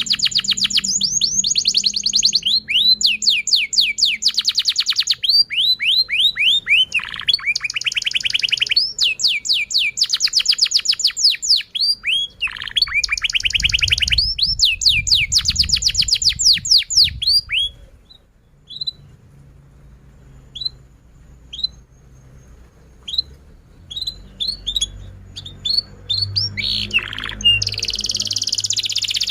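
Domestic canary singing a long song of rapid trills and downward-sweeping whistles. About two-thirds of the way through the song drops to sparse single chirps, then the fast trilling starts again near the end.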